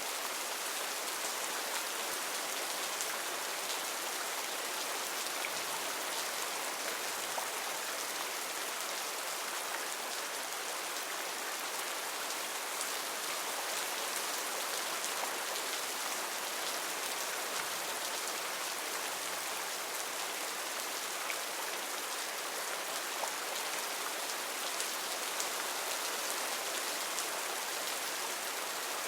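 Heavy rain falling steadily, a dense even hiss of drops pattering on foliage and surfaces, with scattered individual drop ticks.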